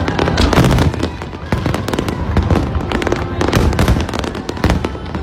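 Fireworks going off in quick succession: a dense run of sharp bangs and crackles, several a second.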